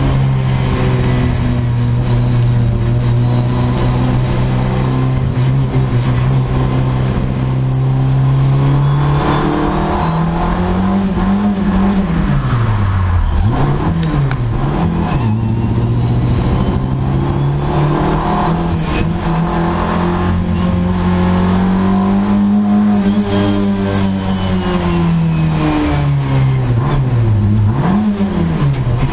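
Skoda 136R's rear-mounted four-cylinder engine under hard driving, heard from inside the cabin. The revs are held steady for the first several seconds, then rise and fall again and again through the corners, with a long climb and drop in the second half and two quick dips near the end.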